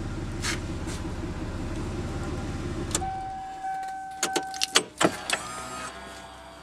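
Toyota Aristo's 2JZ-GTE twin-turbo straight-six idling steadily through its dual exhaust, then switched off about three seconds in. After it stops there is a steady electronic beep, a few sharp clicks and a short whir that falls in pitch.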